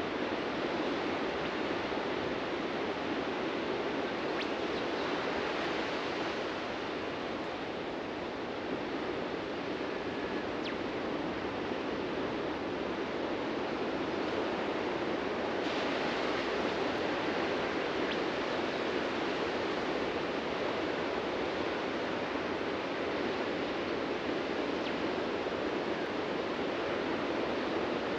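Ocean waves breaking on a beach, a continuous wash of surf that eases off briefly about eight seconds in and swells again just past halfway.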